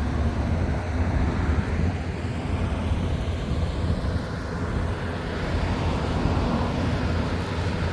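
Semi truck's diesel engine running steadily, a constant low rumble heard inside the cab.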